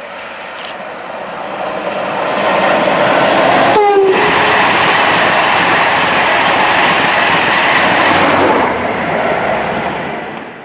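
A train passing at speed: the rush of wheels and rails builds over the first couple of seconds, holds loud, then dies away near the end. A short horn blast sounds about four seconds in.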